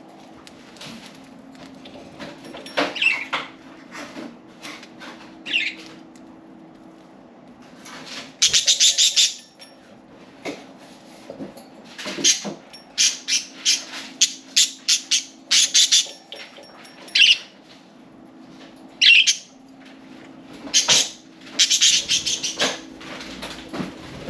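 Pet budgerigars chirping and chattering in irregular bursts, with wing flapping, over a steady low hum.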